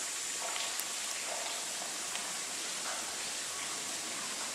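Spring water falling from the top of a cave mouth and splashing on the rock below, a steady hiss.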